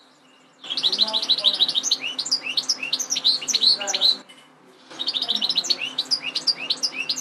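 European goldfinch singing: two long phrases of quick, high chirping notes, separated by a brief pause about four seconds in.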